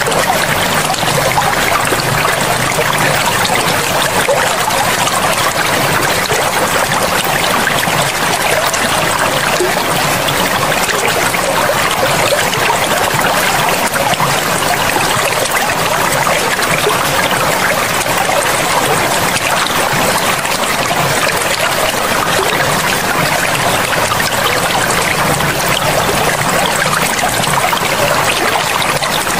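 Forest river running steadily, a continuous wash of flowing water without breaks.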